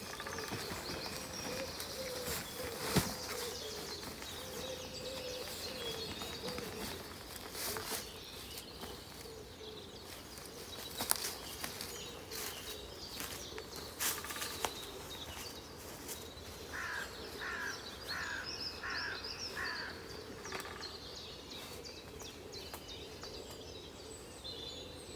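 Garden birds singing and calling, with a run of five short repeated chirps about two-thirds of the way through and a few sharp clicks scattered across it.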